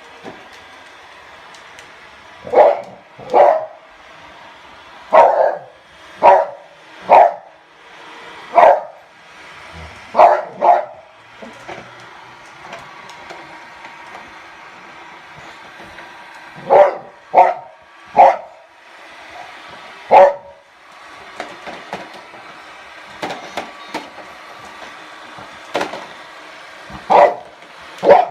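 A dog barking at a robot vacuum: about fifteen sharp, loud barks in short groups of one to three with pauses between them. The robot vacuum's motor runs as a faint steady hum underneath.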